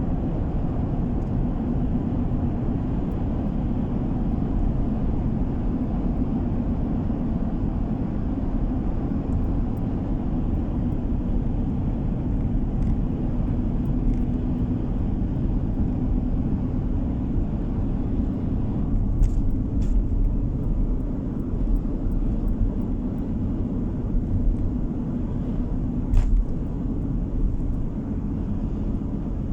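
Steady low rumble of road and engine noise heard inside a moving car's cabin. A few short knocks come about two-thirds of the way in and again near the end.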